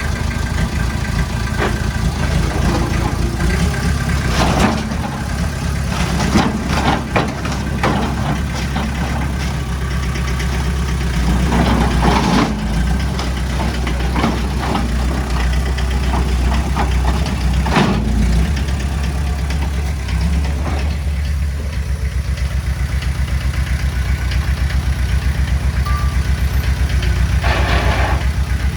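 Heavy-equipment diesel engine running under work, with scattered clanks and knocks. About two-thirds of the way in it settles into a steady, evenly pulsing idle.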